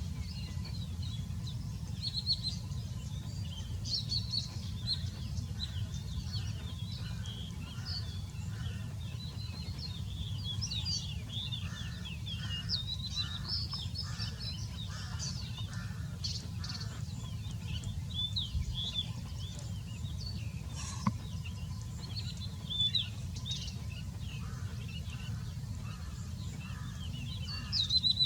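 Birds chirping busily with many short high calls. A lower call repeats in runs of about one and a half a second, heard in the middle and again near the end, over a steady low rumble.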